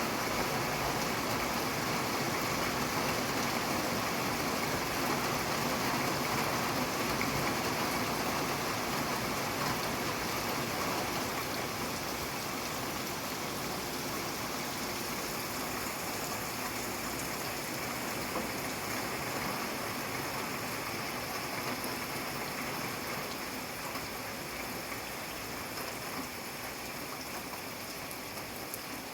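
Steady rain falling, an even hiss and patter of drops with no thunder, easing slightly in loudness over the second half.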